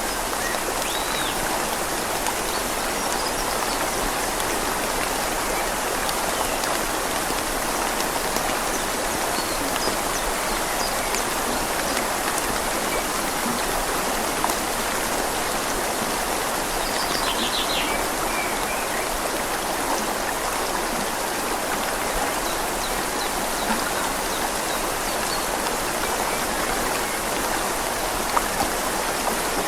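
Steady rain falling on leaves, mixed with a river flowing gently, as an even, unbroken hiss. A few faint bird chirps sound briefly, including a short trill past the middle.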